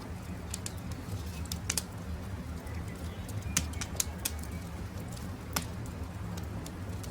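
Wood campfire crackling, with irregular sharp snaps and pops over a low steady rumble. Faint birdsong comes in briefly around the middle.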